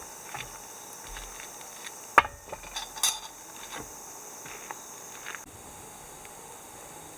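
Insects chirring steadily in the background, with a few scattered sharp clicks and knocks, the loudest a little over two seconds in and another about three seconds in.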